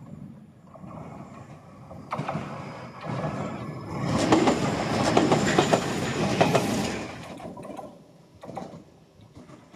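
Shizuoka Railway A3000-series electric train passing by, its wheels clicking over the rail joints. It grows louder over the first few seconds, is loudest in the middle, and dies away near the end.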